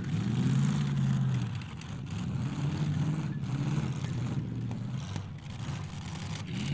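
Demolition derby car engines revving up and down repeatedly as the cars manoeuvre in the arena.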